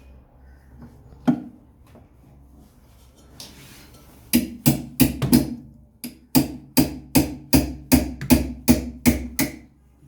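Hammer blows on a washing machine part that is stuck tight: a single strike, a short burst of four, then a steady run of about a dozen blows at roughly four a second.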